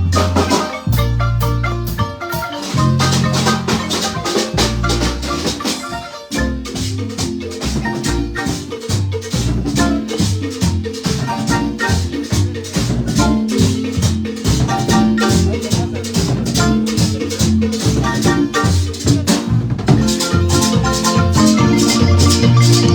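Guatemalan-style marimba ensemble playing a lively piece: rapid mallet strikes on the wooden keys over deep bass notes, with percussion.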